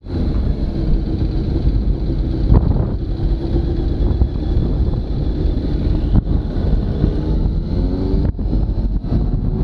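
Motorcycle engine running while riding, under heavy wind noise buffeting the camera's microphone.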